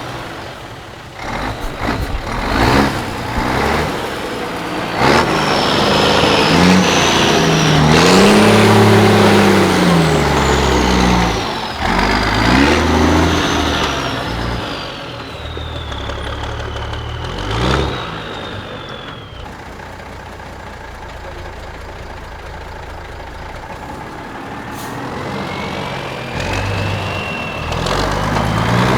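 Liaz 4x4 trial truck's diesel engine revving up and easing off again and again under load, with a high whine rising and falling along with the engine. It settles to a quieter steady run past the middle and picks up again near the end.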